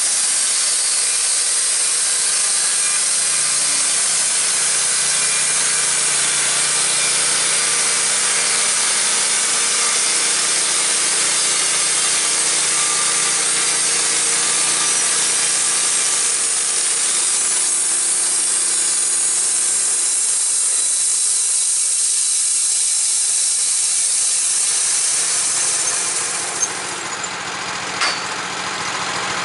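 Wood-Mizer portable band sawmill running, its band blade cutting through a small log over the engine's steady drone. Late on the cutting noise dies away, leaving the engine idling, with two sharp clicks near the end.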